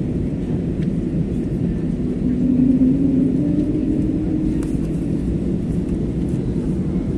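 Airbus A320neo cabin noise in flight: a steady low rumble of the engines and airflow, with a humming engine tone that swells and rises slightly about two seconds in, then settles.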